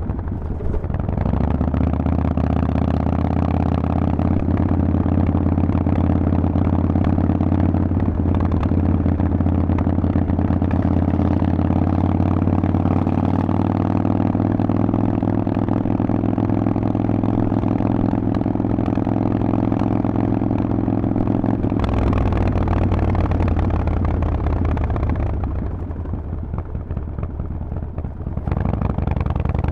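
Harley-Davidson Forty-Eight's 1200 cc air-cooled V-twin through a Vance & Hines exhaust, running under way at a nearly steady pitch. There is a brief dip right at the start and a change in tone about two-thirds through. Near the end it drops quieter for a few seconds, then picks up again.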